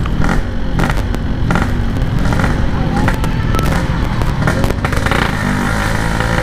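Yamaha RX-King 135 cc two-stroke motorcycle engine running on the move through a Packing Power exhaust, with a steady low rumble broken by many irregular sharp pops and crackles.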